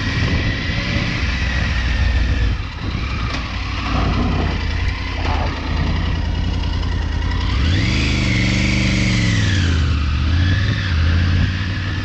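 Triumph Tiger 900 Rally Pro's 900 cc three-cylinder engine, on its stock exhaust, running under way on a dirt trail. About two-thirds of the way through it revs up sharply, holds briefly, then drops back.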